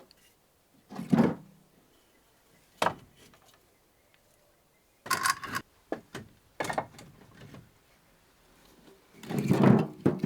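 Pieces of firewood being handled and set down: a run of irregular wooden knocks and thuds with some scraping, the loudest thud near the end.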